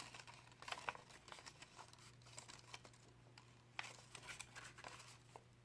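Faint rustling and crinkling of sheets of coloured craft paper being bent and handled, in scattered soft crackles, over a low steady hum.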